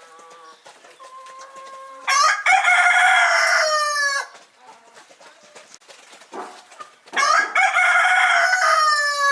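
A rooster crowing twice, each crow about two seconds long and loud, sliding down in pitch at the end. Quieter chicken calls come before and between the crows.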